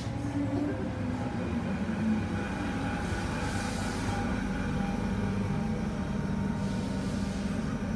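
Class 319 electric multiple unit standing at the platform with a steady low hum, and fainter steady tones above it.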